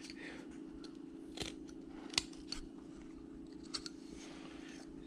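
Carving knife blade shaving slivers off a small wooden carving: a few short, faint cutting snicks, the sharpest about two seconds in, over a low steady hum.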